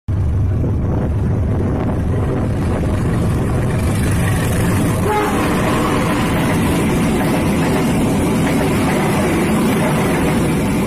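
Passenger train passing close by, a loud, steady rumble of the diesel locomotive and its carriages' wheels on the rails.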